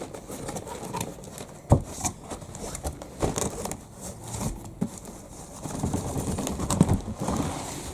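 Black plastic bin-bag wrapping rustling and crinkling as a parcel is unwrapped by hand, with scattered knocks of the hard plastic item being handled and one sharp knock just under two seconds in.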